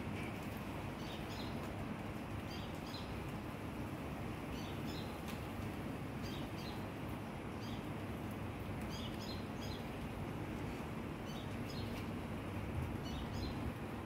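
A small bird chirping, short clusters of quick high notes repeated every second or two, over a steady low background rumble.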